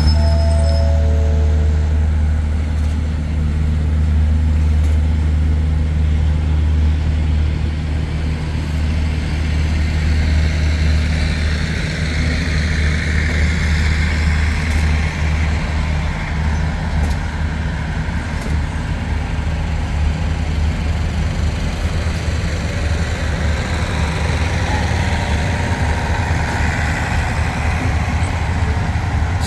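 State Railway of Thailand passenger train moving slowly past along the platform: a steady low diesel engine drone, with a hiss and rumble of wheels on the rails that swells and eases as the carriages go by.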